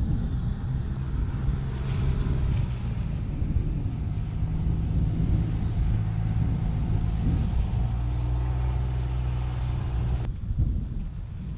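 A motor vehicle's engine running with a steady low hum, then cut off abruptly about ten seconds in.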